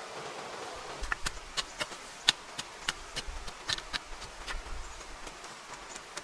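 A run of short sharp clicks and snaps at an irregular pace, about two or three a second, starting about a second in over a faint steady hiss.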